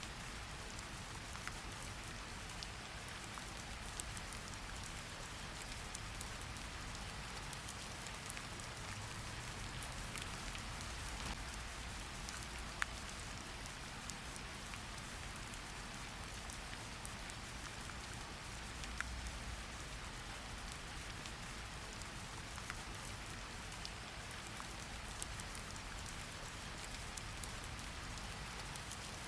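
Steady rain falling, an even hiss with scattered individual drops ticking sharply on a surface, over a low rumble.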